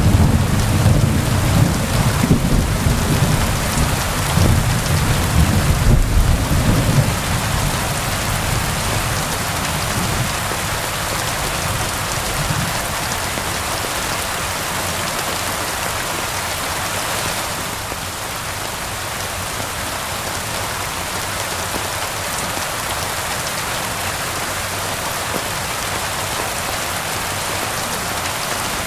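Steady rain falling, with a low rolling rumble of thunder through the first several seconds that fades away, leaving only the even hiss of the rain.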